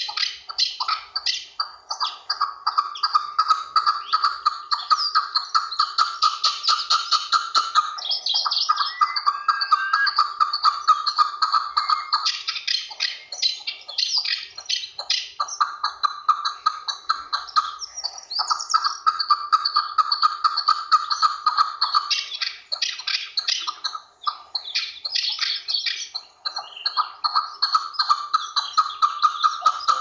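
Chukar partridge calling: a fast run of short, repeated notes in long bouts, with brief breaks between them.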